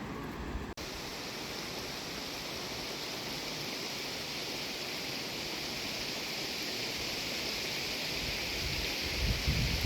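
Steady, even rush of fast-flowing water, with the sound changing abruptly at a cut a little under a second in. Wind buffets the microphone near the end.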